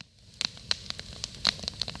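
Campfire crackling and popping, with irregular sharp pops over a soft hiss of burning wood.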